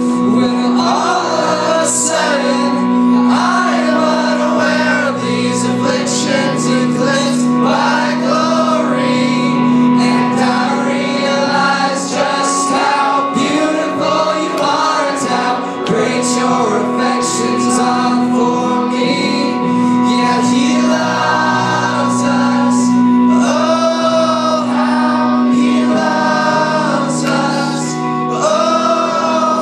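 Gospel-style worship song: melodic singing with choir-like backing voices over steady, sustained chords.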